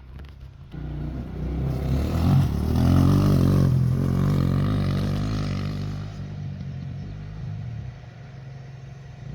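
Off-road vehicle engine coming up close, revving and getting louder to a peak about three seconds in, then dropping in pitch and fading away. A low engine drone runs underneath throughout.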